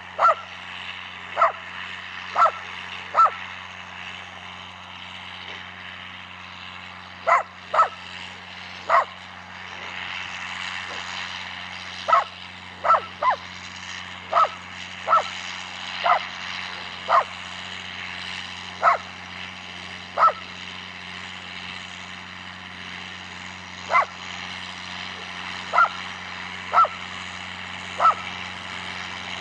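A dog barking repeatedly, in short bursts of one to four barks with pauses between, about twenty barks in all. Under the barking runs a steady low engine drone.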